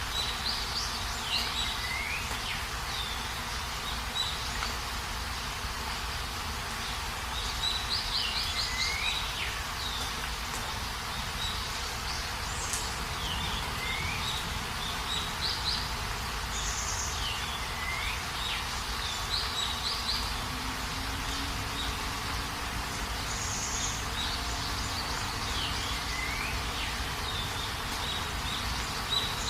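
Steady rain falling, with a bird singing a short phrase every few seconds: a rising note followed by a quick high trill.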